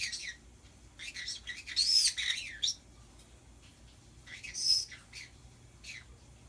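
Pet birds chirping and screeching in short, shrill bursts, the loudest about two seconds in and again near five seconds.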